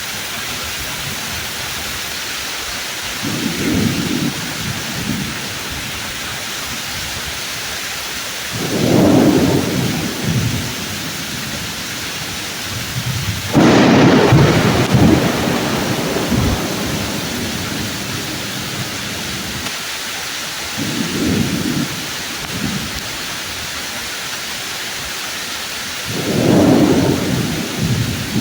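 Pouring rain falling steadily on the leaves of trees, with thunder rumbling about five times. The loudest peal, about halfway through, starts with a sudden sharp crack.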